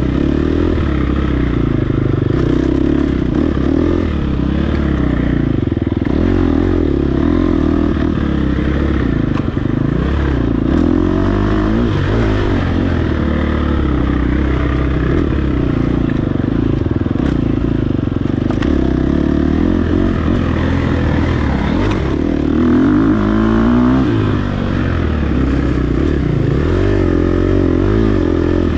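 Dirt bike engine revving up and down continuously as the bike is ridden hard off-road, with a few sharp clicks of clatter over it.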